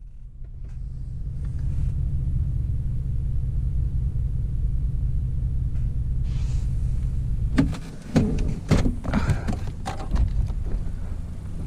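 Steady low rumble of a vehicle running, heard from inside the cab. From about two-thirds of the way in, several sharp knocks and clatters break over it.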